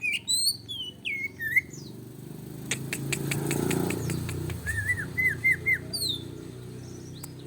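Greater green leafbird (cucak ijo) singing agitatedly, with quick sweeping whistles, a run of clicks in the middle and a string of short arched notes: the heated song used as a lure to provoke other birds.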